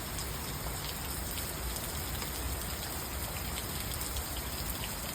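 Steady rainfall, an even hiss with scattered sharp taps of individual drops.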